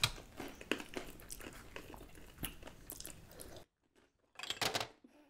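Crunchy snack chips being bitten and chewed, close to the microphone, with a series of short sharp crunches. Near the end the sound cuts to dead silence, returns for a moment, and cuts out again.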